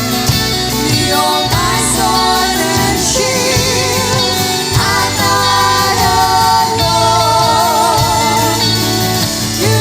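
Worship band playing a Christian song with vocalists singing sustained, wavering notes over steady instrumental backing.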